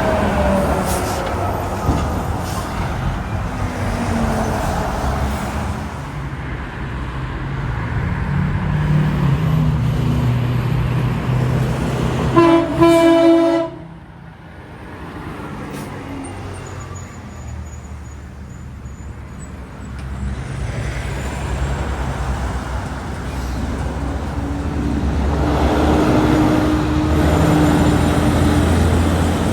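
Highway traffic of trucks passing, engines and tyres rising and falling as each goes by. Near the middle a truck's air horn blows once for just over a second, the loudest sound, and is cut off abruptly.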